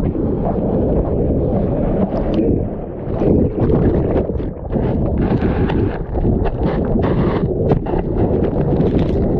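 Strong wind buffeting the microphone in a windstorm, a loud rumbling rush that surges and dips in gusts.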